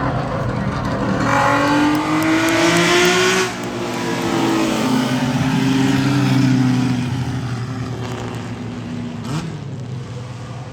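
Racing car engine accelerating past at speed: its pitch rises, then drops about three and a half seconds in as it goes by, and the engine sound fades after that.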